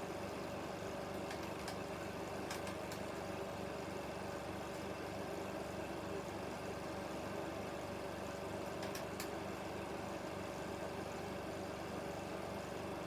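16mm film projector running with a steady mechanical hum and a few faint clicks.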